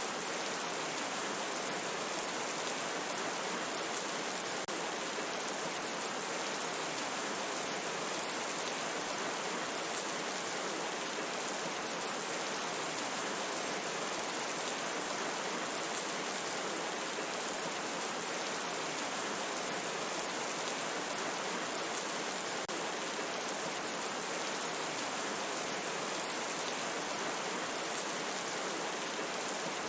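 Steady rain falling in a forest, an even hiss of many drops on leaves with no breaks or louder strikes.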